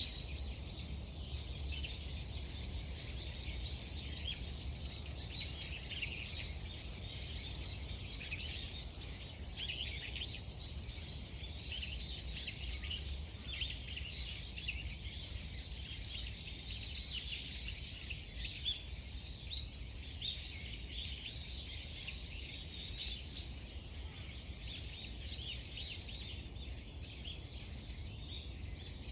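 A chorus of many small birds chirping and singing at once, dense overlapping calls throughout, over a low steady background rumble.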